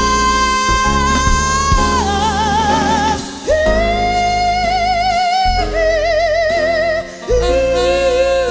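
Slow jazz ballad: a female singer holds long notes with wide vibrato, moving from note to note, over a band accompaniment.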